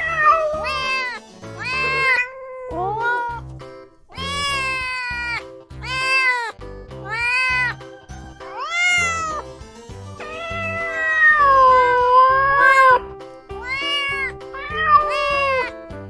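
Kitten meowing over and over, about one short meow a second, with one long drawn-out meow about ten seconds in, over background music with a steady beat.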